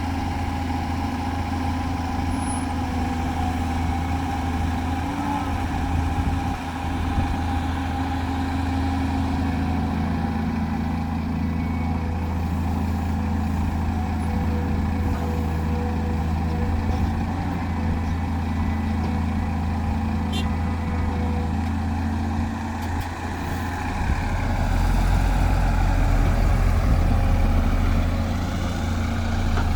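Heavy diesel earthmoving machine engine running steadily. It grows louder and deeper about four-fifths of the way through, as if put under load or revved.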